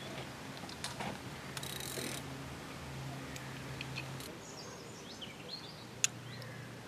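Small birds chirping over a steady outdoor background, with a brief rustle about two seconds in and a single sharp click about six seconds in.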